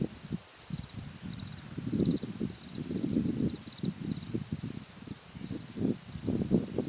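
Insects chirping in a steady, evenly pulsing high-pitched chorus, over louder irregular low rumbles and thumps.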